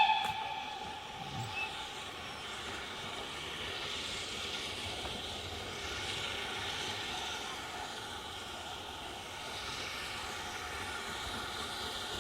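A train whistle ends right at the start, then a train runs by with a steady, even running noise.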